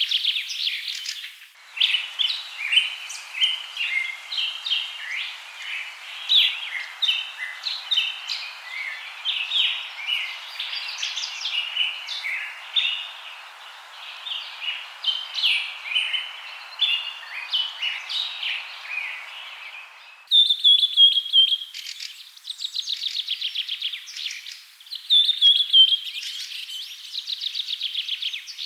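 Several birds chirping in a dense chorus of short, quick notes over a steady hiss. About twenty seconds in, the sound changes abruptly to rapid, repeated trills that fall slightly in pitch.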